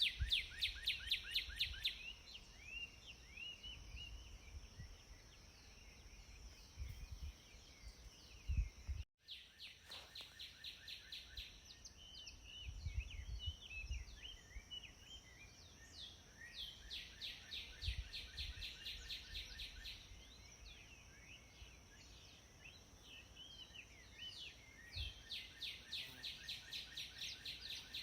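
Songbirds singing: repeated phrases of rapid trills, each about two seconds of quick descending notes, over a steady high hiss, with intermittent low rumbles. The sound cuts out completely for an instant about nine seconds in.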